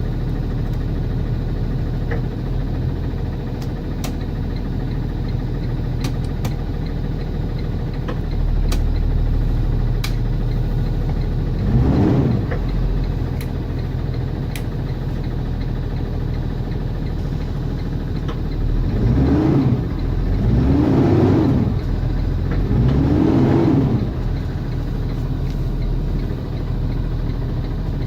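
Cummins ISB 6.7 inline-six turbo diesel of a Thomas Saf-T-Liner C2 school bus idling shortly after a cold start. It is revved up and back down briefly four times: once about twelve seconds in, then three times in quick succession a little past the middle.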